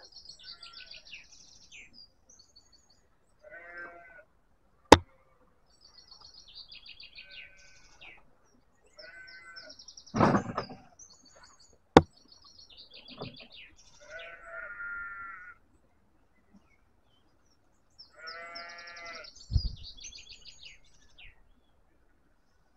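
Sheep bleating several times, with birds chirping between the calls and two sharp clicks, about five and twelve seconds in.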